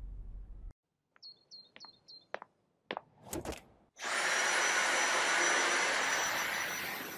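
A few clicks and four short high chirps, then about four seconds in a Dyson vacuum cleaner switches on and runs with a steady rushing noise and a thin high whine.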